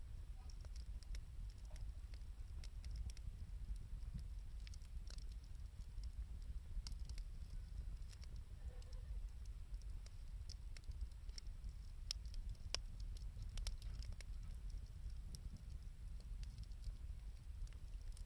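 Burning scrap wood and 2×4 lumber crackling: irregular sharp pops and snaps, a few louder ones in the second half, over a low steady rumble.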